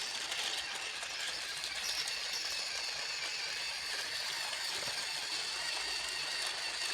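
Battery-powered toy train's small electric motor running along its track with a steady high whine.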